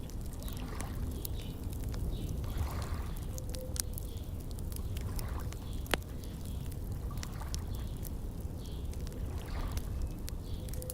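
Wood fire crackling with scattered sharp pops, one louder pop about six seconds in, over water lapping gently at a shore.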